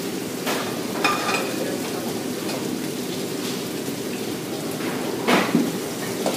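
Food frying in woks on a commercial gas range, a steady sizzle, with a few sharp metal clanks of pans and utensils, the loudest about five seconds in.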